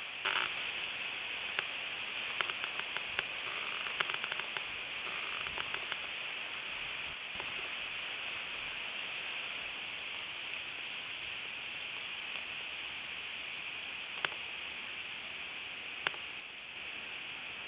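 Steady hiss, strongest high up, with a few faint clicks scattered through it.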